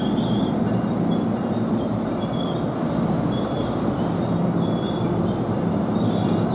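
NJ Transit train running past at close range: a steady rumble with short high-pitched wheel squeals. A hiss lasts about a second and a half, starting about three seconds in.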